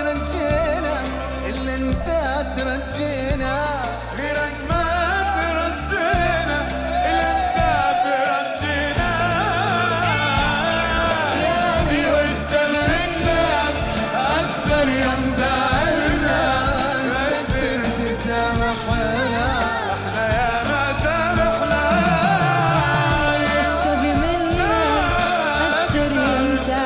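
Arabic pop medley sung live with a band: a lead voice sings ornamented, winding melodic lines over a steady bass and percussion accompaniment, with the voices taking turns in the medley.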